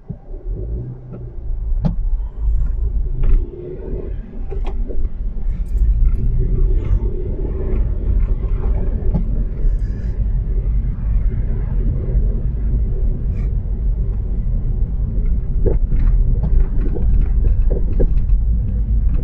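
Car rumble of engine and tyres on a snowy road, building over the first few seconds as the car picks up speed, then steady, with scattered light clicks and knocks.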